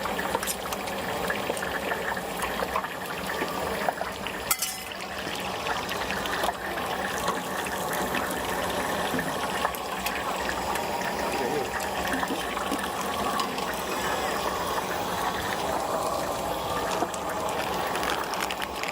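Stinky tofu deep-frying in hot oil: a steady, dense bubbling sizzle. A single sharp knock sounds about four and a half seconds in.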